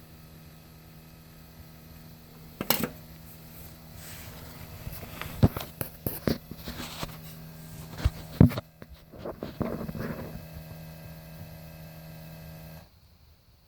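Steady electrical buzz from a new Subaru Outback parked for several hours, which the owner guesses is normal emissions-system noise; it cuts off suddenly near the end. Several sharp knocks and clicks sound over it in the middle.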